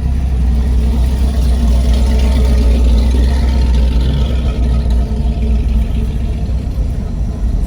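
A car engine running at low revs with a deep, steady rumble as show cars roll slowly past.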